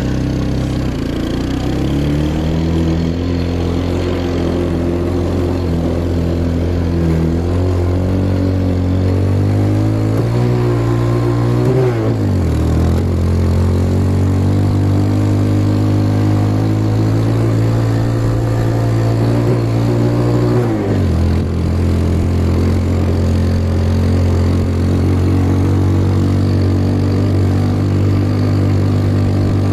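Quad bike engine running under steady load, heard close up from on board; its pitch creeps slowly upward and drops sharply twice, about twelve and twenty-one seconds in, as the revs fall back.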